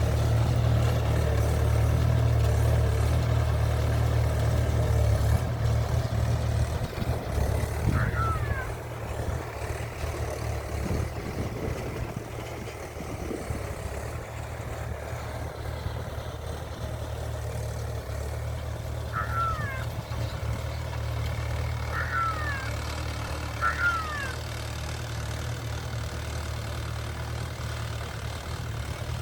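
Farm tractor's diesel engine running steadily, louder for the first six seconds or so and then easing off to a lower level. A few short, high, falling chirps come and go over it.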